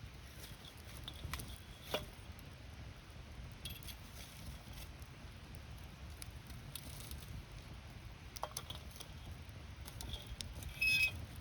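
Wood campfire crackling, with scattered sharp pops over a steady low rumble. One sharper pop comes about two seconds in, and a short louder burst with a high whistling edge comes just before the end.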